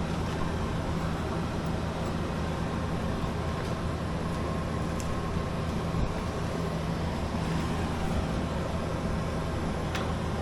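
Steady low mechanical hum of a running machine, with a couple of faint clicks.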